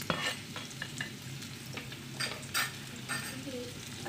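Chopped shallots, garlic and spring onion sizzling in hot oil in a nonstick wok, with a utensil clicking and scraping against the pan every half second or so as the aromatics are sautéed.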